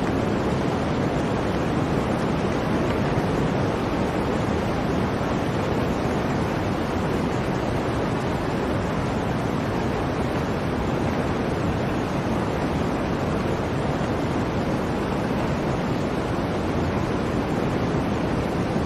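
Blizzard wind, a steady, dense rush of noise that holds at one level without separate gusts or breaks.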